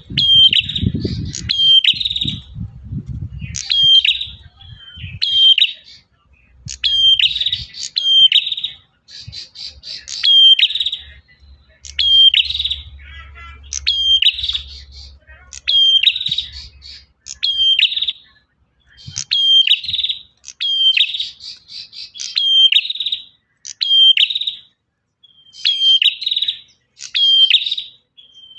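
Male prenjak (prinia) singing loudly: short, sharp, high chirping phrases repeated over and over, about one phrase every second or so with brief gaps between. A low rumble sits under the first few seconds.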